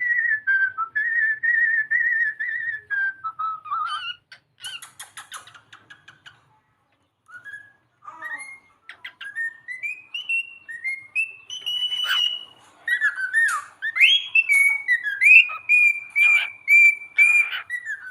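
Cockatiel whistling its song: a warbling held note, then a quick spell of chattering clicks, then a run of rising whistled phrases and held notes after a short pause.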